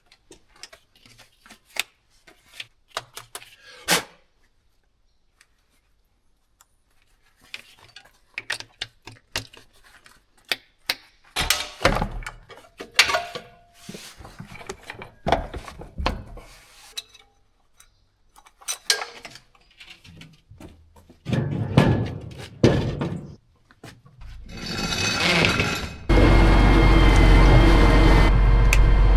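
Scattered knocks, clunks and clinks of objects being handled. Near the end an engine turns over, catches and runs steadily.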